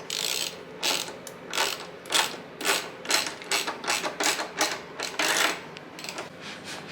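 A run of short mechanical rasping strokes, about two a second, coming a little faster in the middle.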